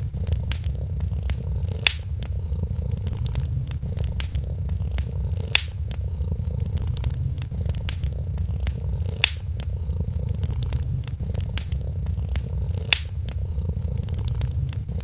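Cat purring, a steady low rumble, under a wood fire crackling. Small crackles come often, with four louder pops spaced about three and a half seconds apart.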